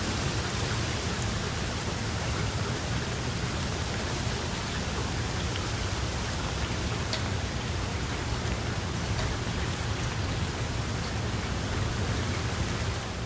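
Steady, heavy rain falling, with a few individual drop ticks and a steady low rumble underneath.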